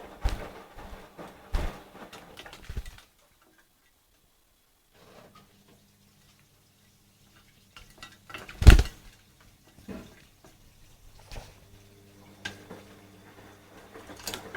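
Scattered clinks and knocks of a small bath dish, with a little water dripping, as a lovebird bathes in it. The loudest knock comes about nine seconds in.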